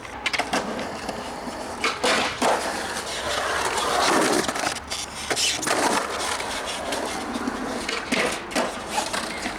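Skateboard wheels rolling, with sharp clacks and knocks of the board scattered throughout and a loud stretch of rolling about two to four seconds in.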